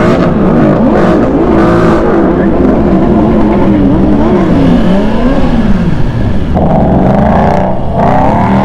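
Engines revving, their pitch rising and falling over and over, with a second, higher-revving engine joining about two thirds of the way through.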